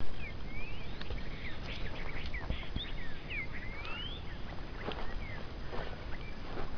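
Several birds calling: a busy run of short chirps and a few longer rising whistles, over a steady low rumble.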